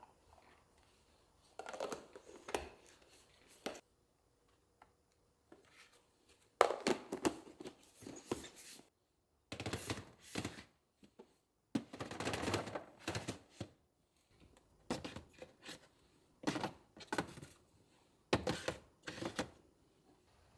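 Kitchen work sounds: short bursts of knocking, clatter and rustling as food and containers are handled, broken up by abrupt silent gaps.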